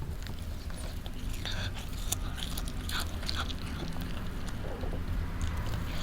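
A cat chewing and biting into cat grass, with scattered crisp crunching bites over a steady low hum.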